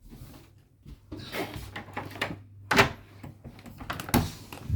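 Household handling noises: scraping and rustling with a few sharp knocks, the loudest nearly three seconds in and another about four seconds in.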